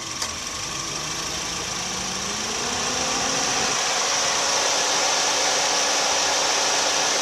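Suzuki Swift engine running; its pitch rises over about two seconds and then holds steady at a higher speed. A single short click comes just after the start.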